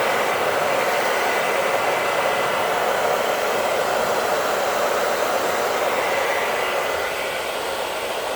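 Hair dryer running steadily, a loud even rush of air with a faint high whine, eases slightly near the end.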